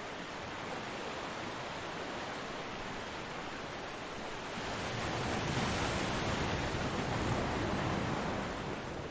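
Ocean waves breaking on a beach: a steady wash of surf that swells into a louder crash about halfway through, then eases off near the end.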